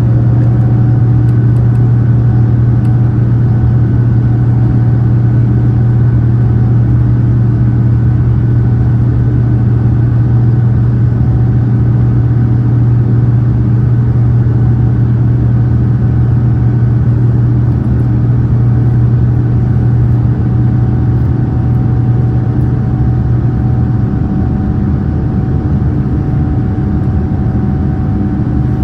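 Boeing 787-9's jet engines heard from inside the passenger cabin: a loud, steady drone with a deep hum and a few faint steady tones above it. The deep hum eases a little near the end.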